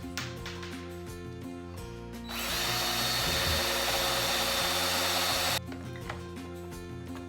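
Electric drill running for about three seconds, boring a hole, starting about two seconds in and stopping abruptly. Soft background music plays underneath.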